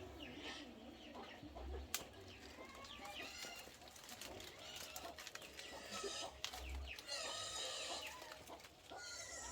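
Chickens clucking and calling in short, scattered calls, with a single sharp click about two seconds in.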